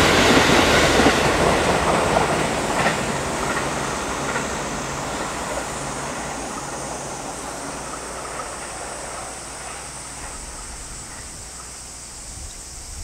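Thunderbird limited express electric train running away down the line, its wheels clicking over the rail joints. The rumble fades steadily as it draws off into the distance.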